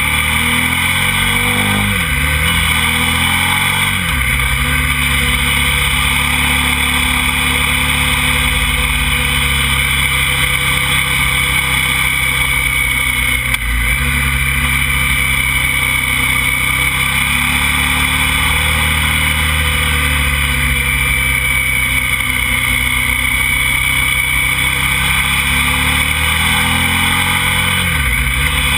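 KTM motorcycle engine running under way, recorded from the bike. The engine pitch drops briefly and climbs again about four times, with a steady high whine and wind rush over it.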